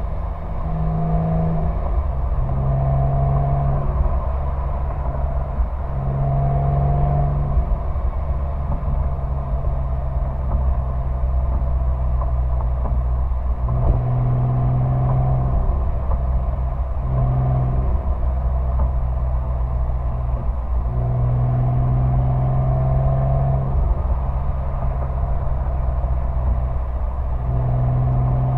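Sport exhaust of a Porsche 911 (997) flat-six, heard close at the tailpipe while driving. The engine note steps up and down in pitch with short breaks, as the car is taken through the gears of its six-speed manual.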